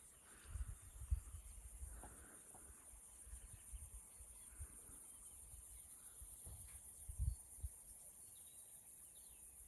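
Faint outdoor ambience: a steady, high insect chirring, with scattered low rumbles and thumps, the strongest about seven seconds in.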